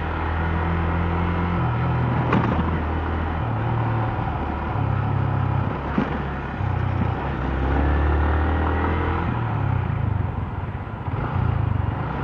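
Motorcycle engine running during a city ride, its low note stepping up and down as the speed changes, with a couple of sharp clicks.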